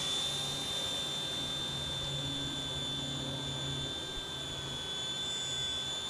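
Small RC helicopter hovering, its motor giving a steady high-pitched whine over the hum of the rotor blades.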